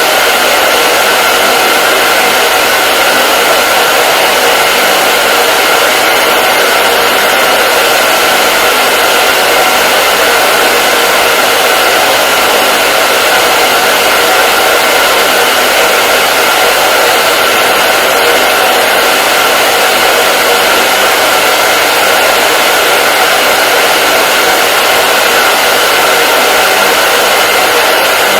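Hair dryer running continuously, a loud, steady whooshing rush of air with a constant faint whine, unchanging throughout.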